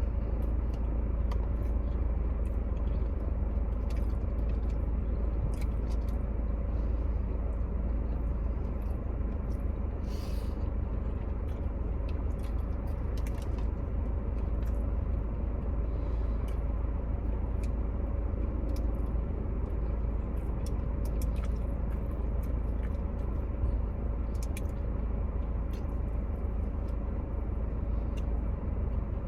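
A person chewing and eating fast food, with scattered small clicks and crunches, over a steady low hum.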